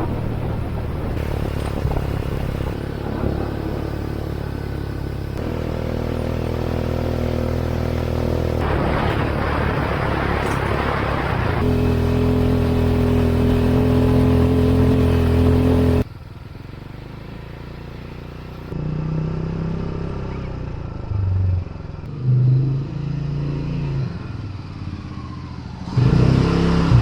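A motor vehicle's engine running while driving on the road, in several cut-together stretches whose pitch changes abruptly at each cut; from about two-thirds of the way through it is quieter and more uneven.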